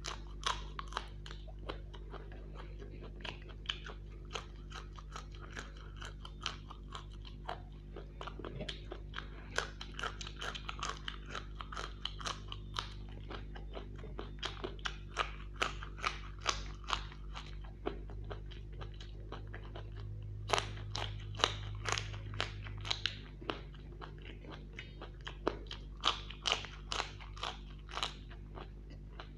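Close-up chewing of raw green chillies, with many short, sharp crunches as they are bitten and chewed.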